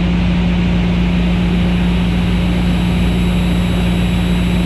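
Van's RV-8's piston engine and propeller droning steadily in the cockpit on final approach with full flaps, a constant low hum under an even rush of noise.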